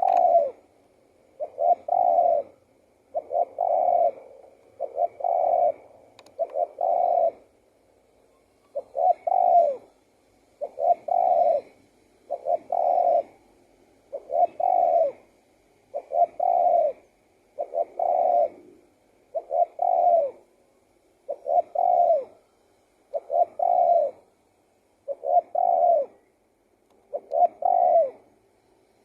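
Spotted dove cooing, its song phrase repeated over and over about every two seconds, each phrase a short run of two or three low, soft notes.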